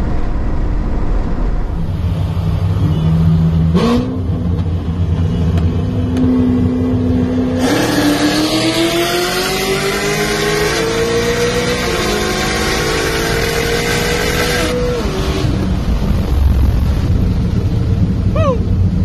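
V8 car engine under hard acceleration, heard from inside the cabin: a low rumble at first, then about four seconds in the pitch starts climbing, stepping up with a louder rush about eight seconds in and rising steadily until about fifteen seconds in, when it falls back to a lower rumble.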